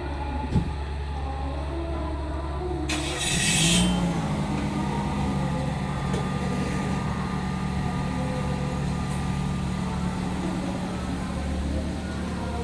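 Heavy diesel engine of a Hitachi excavator running steadily. About three seconds in there is a short, sharp hiss as the engine revs up, and it then holds at a higher steady pitch.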